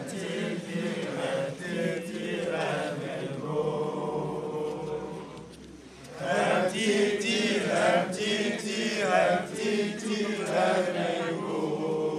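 A group of voices singing together. The singing fades briefly about halfway through, then comes back louder.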